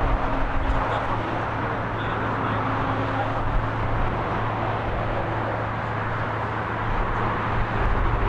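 Steady vehicle noise outdoors: an even rushing sound with a low steady hum beneath it.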